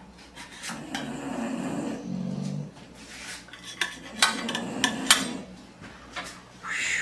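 Dishes and cutlery clinking as food is served onto plates, with a cluster of sharp clinks about four to five seconds in.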